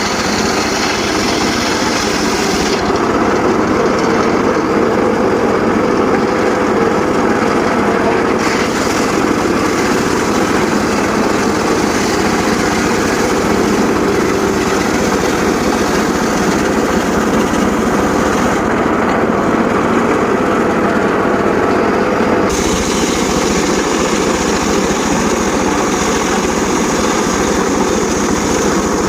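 Small engine driving a homemade circular saw rig, running steadily. The high, hissing part of the sound drops away twice for several seconds, about three seconds in and again past the middle.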